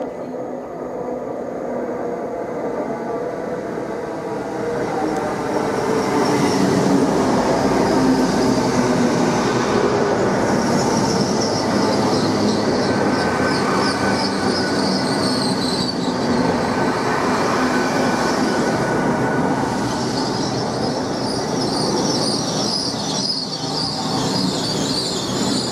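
GWR Class 800 bi-mode train, running on its underfloor diesel engines, arriving along a station platform and slowing to a stop, with a high squeal as it brakes. It grows louder about six seconds in.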